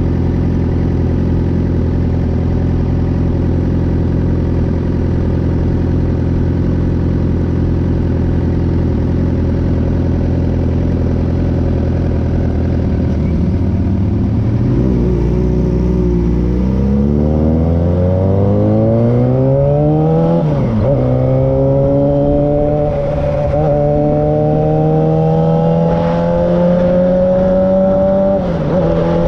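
2009 Suzuki GSX-R 600's inline-four engine through an M4 aftermarket exhaust. It runs steadily at low revs for the first half, then climbs in pitch as the bike accelerates, with three short dips for upshifts in the second half.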